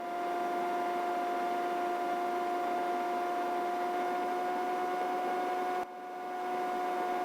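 Helicopter in cruise flight heard through the intercom: a steady turbine and gearbox whine made of two strong tones over an even hiss. The sound drops out briefly about six seconds in and comes back.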